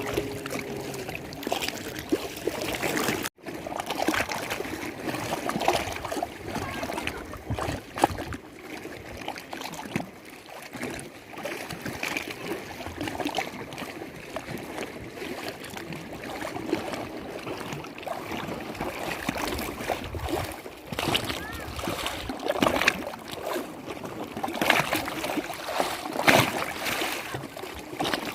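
Lake water lapping and splashing, a steady wash broken by frequent small splashes.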